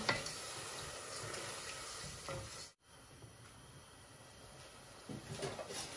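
Spice paste frying and sizzling in a stainless steel pot as it is stirred with a wooden spatula. The sound breaks off suddenly a little under three seconds in and comes back fainter.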